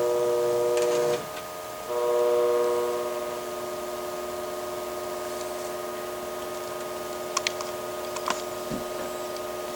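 Lionel FT diesel locomotive's onboard sound system blowing its electronic horn chord in two blasts, the second louder, followed by a quieter steady tone with a few sharp clicks.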